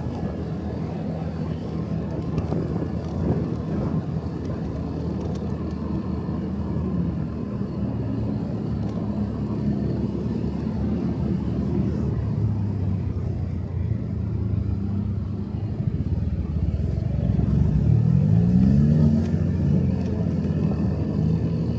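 Motorcycle engine running under way, heard from the rider's seat; near the end its note rises and grows louder as it speeds up.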